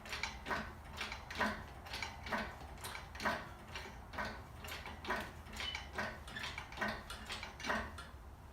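Hand-pumped hydraulic engine hoist being jacked up, a regular clack about twice a second with each stroke of the pump handle as it lifts the engine, over a steady low hum.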